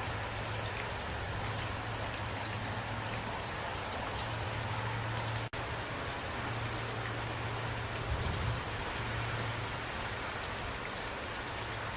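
Steady rainfall with scattered individual drops ticking, over a constant low hum. The sound cuts out for an instant about halfway through, and a brief low thud comes about two-thirds of the way in.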